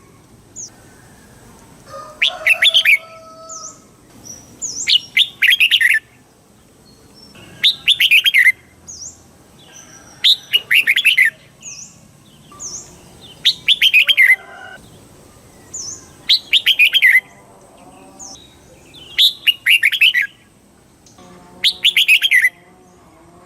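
Red-whiskered bulbul singing: a short, rapid warbled phrase repeated about every two and a half seconds, eight times, with brief thin high notes between the phrases.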